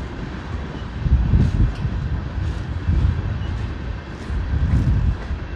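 Wind buffeting the microphone in uneven gusts, over the low rumble of a freight train.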